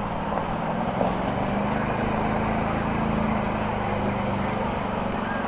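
Large vehicle engines running at a demolition derby, a steady droning with a slight swell in pitch and level around the middle.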